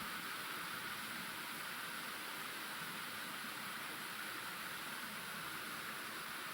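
Steady, even hiss of falling water, with no distinct drops or splashes standing out.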